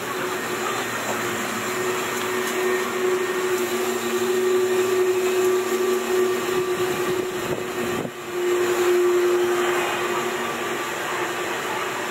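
Steady machine noise with a droning hum, dipping briefly about two-thirds of the way in.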